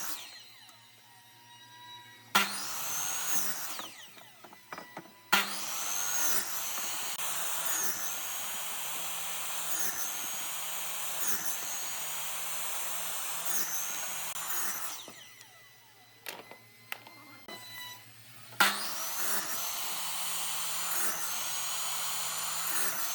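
An electric power tool running at high speed in three stretches, switched on and off between them. Its whine dips briefly in pitch and recovers again and again as it takes load.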